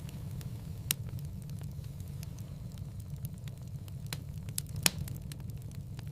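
Wood fire crackling in a fireplace: a steady low rumble of the flames with many small scattered snaps, and two sharper pops, one about a second in and one about five seconds in.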